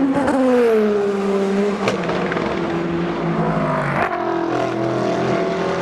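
Endurance race cars going by at speed, several engines overlapping, with engine notes falling in pitch as they pass. Two sharp cracks come about two and four seconds in.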